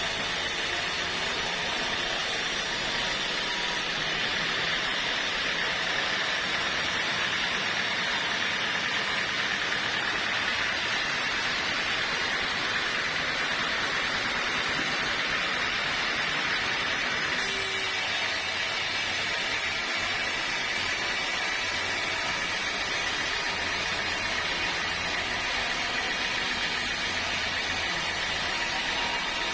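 Sawmill machinery running with a steady, even noise and a faint high whine; the sound shifts slightly about four seconds in and again past the middle.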